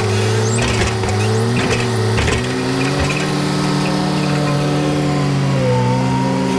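Skid loader engine running steadily, its pitch dipping and rising a little as the throttle changes, with several knocks and rattles in the first couple of seconds.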